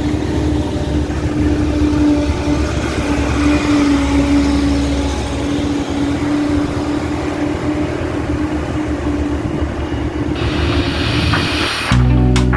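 Truck engine running steadily with a low rumble and a wavering hum, with a hiss rising about ten seconds in. Music starts near the end.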